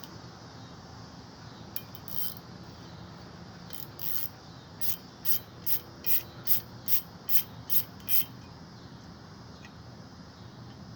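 A hand tool being worked on the ice maker's metal to take a part off: a few short high rasping strokes, then a regular run of about nine at roughly three a second near the middle.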